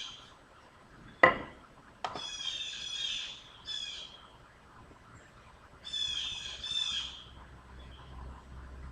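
A bird chirping and squawking in two quick chattering runs of high notes, the second near the middle. A single sharp knock sounds a little over a second in.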